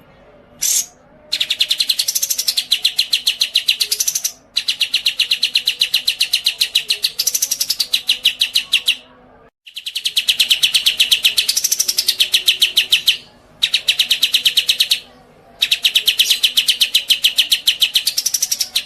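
Songbird singing: a short chirp, then a series of long, rapid, loud trills of evenly spaced notes, each a few seconds long with a swoop up and down in pitch, separated by brief pauses.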